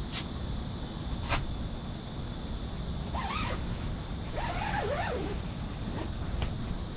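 Steady wind rumble across the microphone outdoors, with two sharp clicks in the first second and a half and two short wavering calls in the middle.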